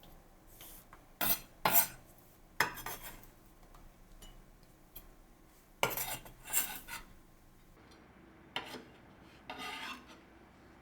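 Kitchen utensils and dishware clinking and scraping in several short, separate bursts with quiet gaps between them.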